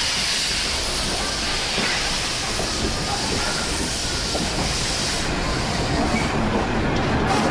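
Heritage train rolling slowly along the track: wheels rumbling and clattering on the rails under a steady hiss. The hiss fades about five seconds in while the rumble grows louder.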